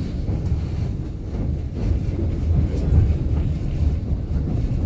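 White Pass & Yukon Route train running, heard from on board: a steady low rumble of the cars rolling along the track.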